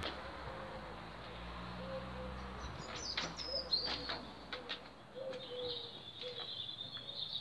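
Small birds chirping repeatedly, with a few sharp clicks; a low steady hum underneath stops a few seconds in.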